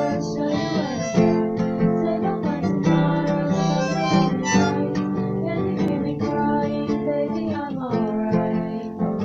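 Acoustic guitar strummed with a harmonica playing along, a song in steady rhythm.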